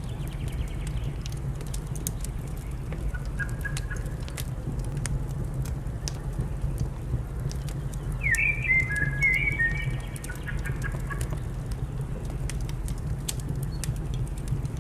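Fire crackling with frequent sharp pops over a low steady rumble, and a bird calling: faint notes about three to four seconds in, a louder run of short calls about eight seconds in, and more near the end.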